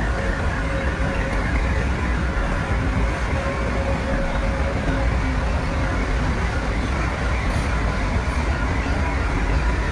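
Heavy earthmoving machinery's diesel engine running with a steady, low rumble.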